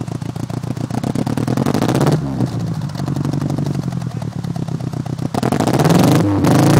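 Fiat Seicento engine running through its exhaust with a rapid, even pulsing note, then revved up about five and a half seconds in.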